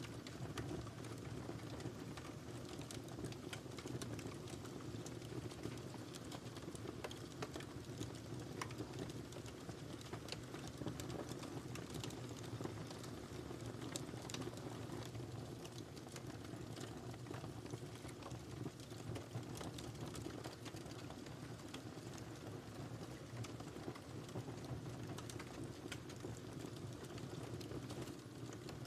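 Wood fire burning in a fireplace: a steady low rush of flames with many small, irregular crackles and snaps.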